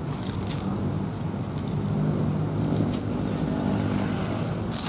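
Steady low mechanical hum of a train running nearby, with short crackles and rustles scattered over it.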